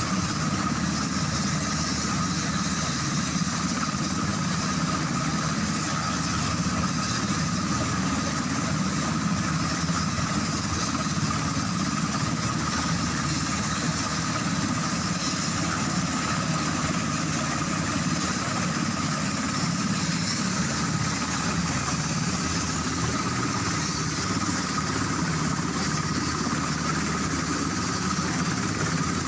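UH-60 Black Hawk helicopter's twin turboshaft engines running steadily, a constant high whine over an even rumble with no change in pitch.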